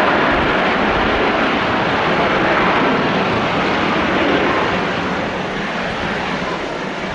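Jet airliner's engines running loud as it moves along the runway, a steady rushing noise that slowly fades over the last few seconds.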